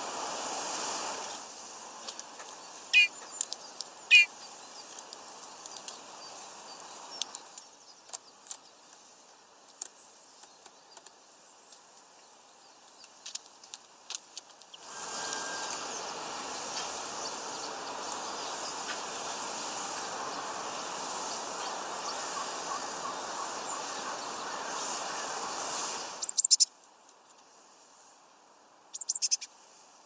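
Small birds at a feeder giving short, sharp chirps: two clear calls about three and four seconds in, and quick clusters near the end. Beneath them runs a steady hiss that drops away and returns abruptly several times, with faint scattered clicks.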